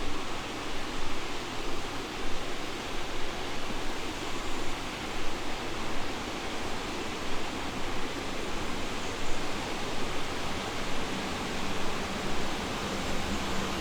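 Rushing water of a mountain river or stream, a steady even rush. A steady low hum joins near the end.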